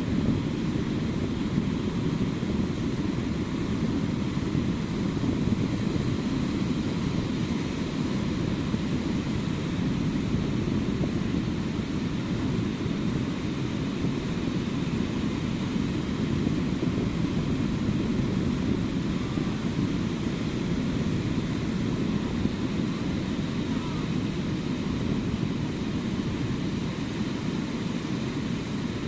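Ocean surf on a sandy beach, a steady low rumble without distinct separate wave crashes.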